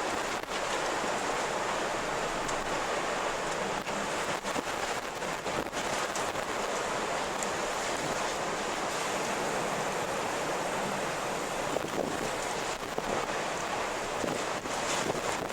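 Strong wind blowing steadily, an even rushing hiss, with a few brief faint ticks.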